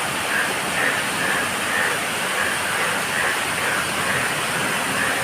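Steady rain falling with frogs calling over and over on top of it, about two calls a second.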